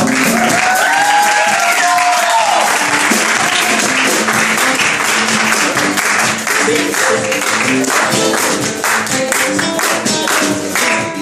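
A band playing live, with a steady percussion rhythm and bass notes, while the audience claps and cheers, with whistles, over the first few seconds.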